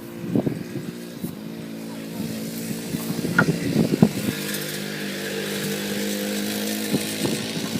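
90cc quad bike engine running, growing louder about two seconds in and then holding a steady note, with a few sharp knocks over it.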